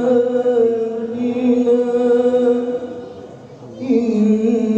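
A man reciting the Quran in a slow melodic chant, holding long steady notes on "min āyātinā", with a short breath pause about three seconds in before the next phrase begins.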